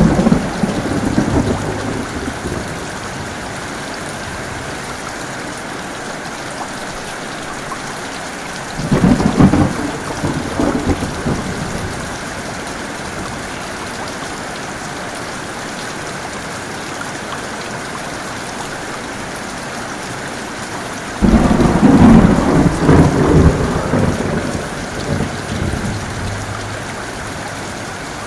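Heavy rain falling steadily, with thunder rumbling three times: one rumble dying away at the start, another about nine seconds in, and a longer, louder one starting about two-thirds of the way through.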